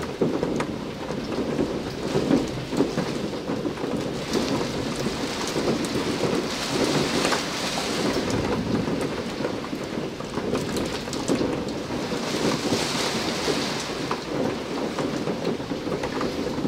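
Light, steady rain in a strong wind, with fine drops ticking on window glass; the higher hiss of the rain swells twice.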